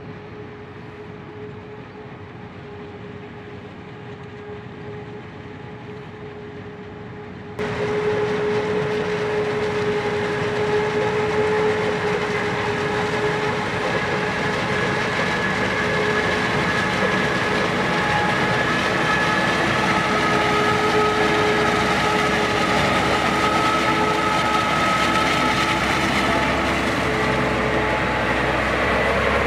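Heavy harvest machinery running steadily, a droning engine with a held whine. About seven and a half seconds in, the sound abruptly becomes louder and fuller.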